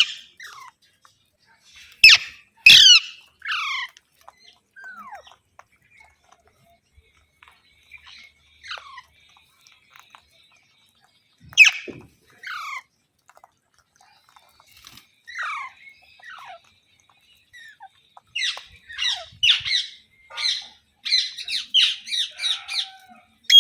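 Pet Indian ringneck parrot (rose-ringed parakeet) screeching: loud, sharp calls that slide down in pitch, often in pairs, scattered with pauses, then a quick run of calls near the end.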